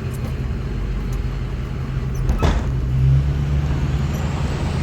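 Plow truck's engine running steadily while it pushes snow in four-wheel drive. There is a brief knock about halfway through, and the engine note gets a little stronger just after.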